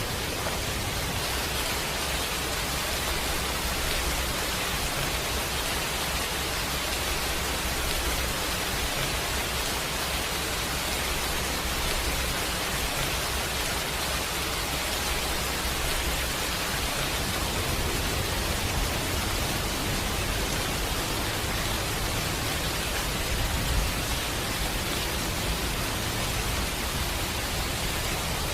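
Steady rain, an even hiss of falling water with a low rumble beneath it.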